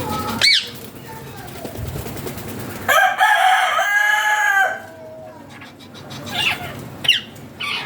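Ringneck parrots' short, sharp screeches that fall in pitch, once near the start and a few times near the end, with one long drawn-out bird call lasting nearly two seconds about three seconds in.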